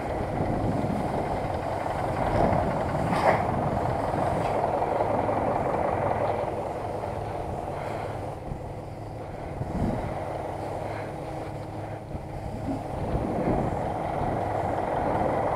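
Zetor tractor diesel engine running steadily while driving, with a mechanical rattle, a sharp knock about three seconds in, and the engine easing slightly for a few seconds in the middle.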